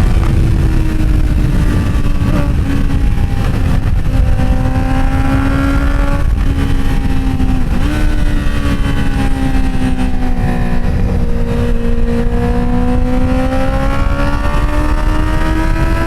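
Inline-four motorcycle engine running under way, its pitch sagging and climbing slowly with the throttle, with a short dip and jump about eight seconds in. Heavy wind rush underneath.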